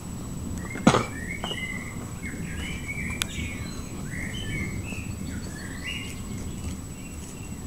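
Small birds chirping and twittering in short repeated calls over a steady low background noise, with one sharp knock about a second in.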